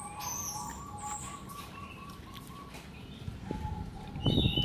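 Caged birds calling: a long, even call, with short high chirps over it. Near the end come a few low knocks.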